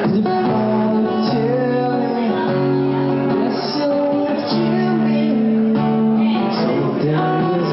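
Acoustic guitar played with a voice singing over it, in a live performance.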